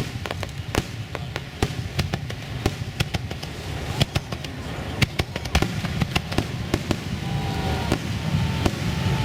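Aerial fireworks going off in quick succession: many sharp cracks and bangs at irregular intervals over a continuous low rumble.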